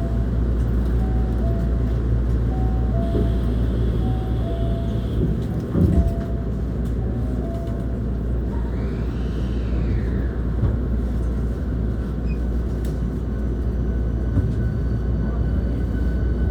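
Interior running noise of a Hankyu 1300 series electric train with Toyo IGBT-VVVF drive: a steady low rumble of wheels on rail. Faint tones rise and fall above it, and there is a single thump about six seconds in.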